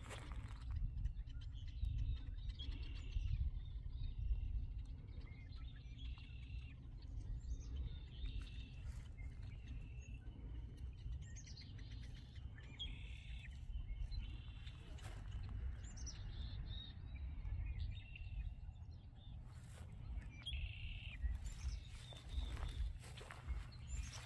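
Small birds chirping: short calls repeated throughout, over a steady low rumble.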